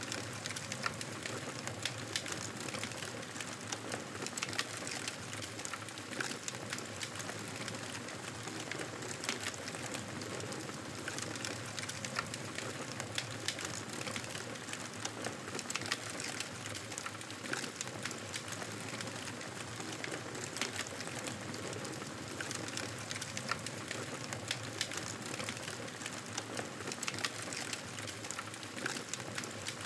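Campfire burning: a steady hiss of flames with frequent short crackles and pops from the burning wood, some louder than others.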